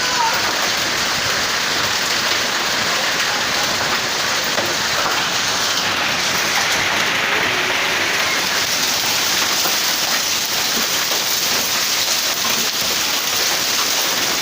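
Heavy rain falling and pattering on surfaces, a steady, dense hiss.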